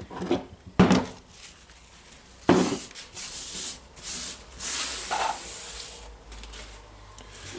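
Metal parts of a rotary hammer's tool holder being handled during disassembly: a few sharp knocks, then a couple of seconds of rubbing and scraping.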